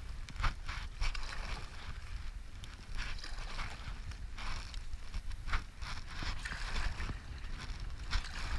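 Water splashing and rushing around a stand-up paddleboard on a whitewater river, in uneven repeated splashes, over a steady low rumble of wind on the microphone.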